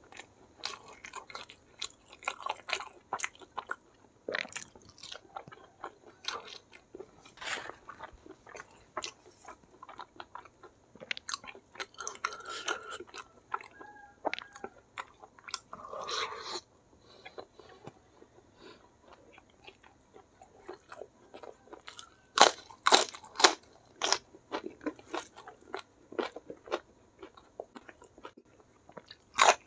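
A person eating close to the microphone: chewing, biting and crunching of crispy fried chicken and rice, with wet mouth clicks. A run of louder crunches comes about three quarters of the way through.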